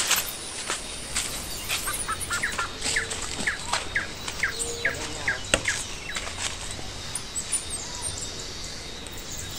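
Small birds chirping in a quick run of short, repeated calls, with scattered light footfalls and rustles on dry leaf litter.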